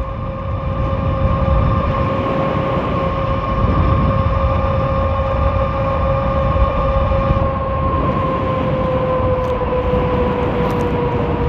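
An all-wheel-drive fat-tire e-bike riding fast on pavement: a steady whine from its dual motors and fat tires over a low rush of wind on the microphone. About two-thirds of the way through, the whine drops slightly in pitch as the speed eases off.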